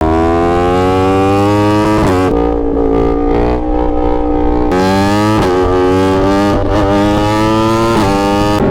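A 2021 Yamaha R1's crossplane inline-four engine and exhaust running at full throttle under acceleration. Its pitch climbs and then drops back several times as it shifts up through the gears.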